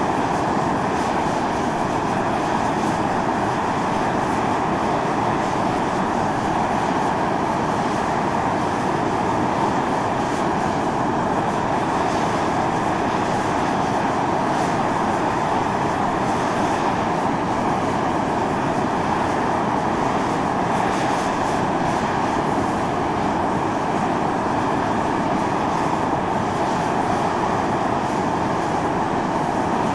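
Volcanic fumarole jetting steam under pressure: a loud, steady hiss that runs on without a break.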